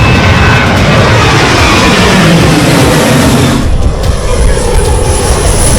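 Speedboat under way: engine running with wind rushing over the microphone, loud and steady, with a short break and change about three and a half seconds in.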